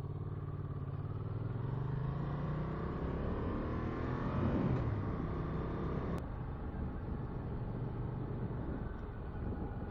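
Ducati Monster 695's air-cooled L-twin engine pulling under acceleration, its pitch rising over the first few seconds, then running on at a steady speed. A single sharp click about six seconds in.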